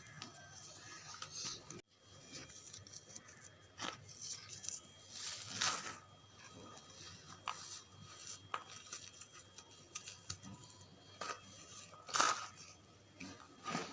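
Pressed charcoal bars being crumbled, with irregular crunching and crackling and a few louder crunches, one about halfway through and one near the end.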